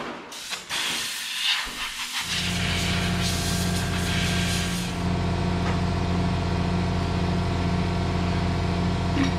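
Hissing with some clatter, then a little over two seconds in a machine starts up and runs with a steady, even hum that does not change in pitch.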